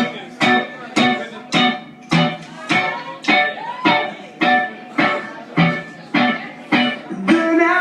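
Electric guitar playing short, chopped chords in a steady rhythm, about two strokes a second, as a song's intro. Near the end the sound fills out as more of the band comes in.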